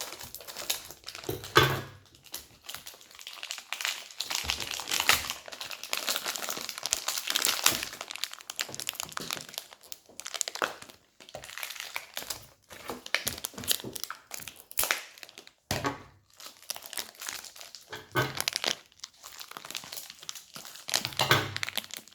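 Crinkling and tearing of toy packaging handled and opened by hand, in an irregular run of sharp crackles, with a few dull bumps of handling.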